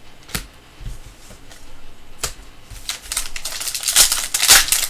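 Trading cards being handled: a few separate clicks and taps as cards are flicked and set down, then from about three seconds in a denser run of clicking and rustling as cards slide against each other.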